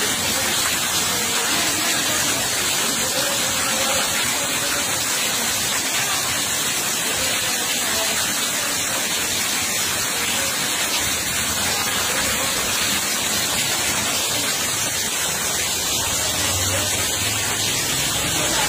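Heavy rain pouring down steadily onto puddles and wet concrete, a constant dense hiss.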